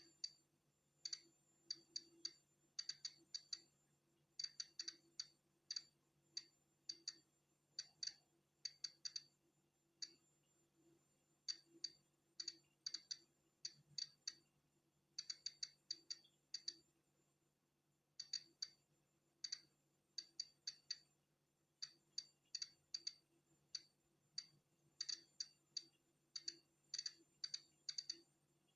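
Polon EKO-C digital Geiger counter clicking at random, irregular intervals as it counts natural background radiation: sharp clicks at about three a second on average, sometimes in quick runs, sometimes with gaps of a second or more. A faint steady hum lies underneath.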